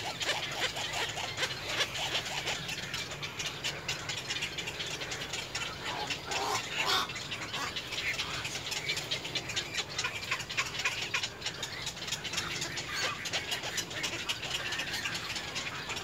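Dense, rapid clicking and chattering bird calls, with a few louder calls about six to seven seconds in.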